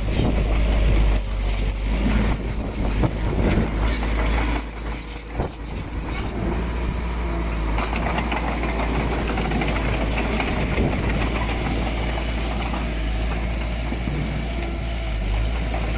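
Diesel engine of heavy earthmoving machinery running steadily. Clanks and high metallic squeaks come over it during the first six seconds or so.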